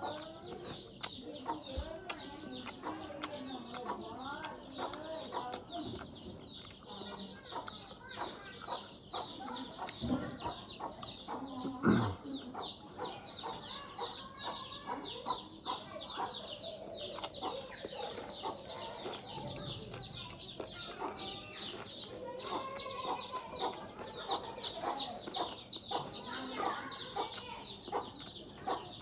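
Chickens clucking, over a constant high, fast chirping, with one louder knock about twelve seconds in.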